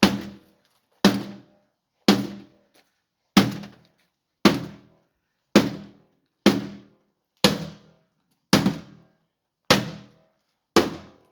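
A dishwasher being struck hard with a hand tool, eleven heavy blows at about one a second, each ringing briefly.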